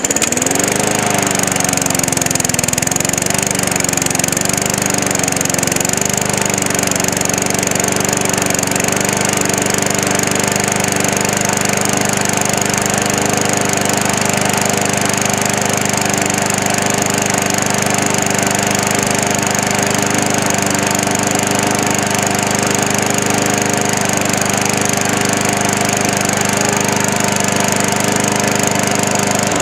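Push mower's small engine catching and running after sitting all winter: it revs up unevenly for the first several seconds, then settles into a steady run and dies away at the very end.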